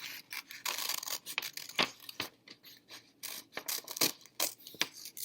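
Scissors cutting paper: a string of short snips and crisp rustles as white paper circles are cut out.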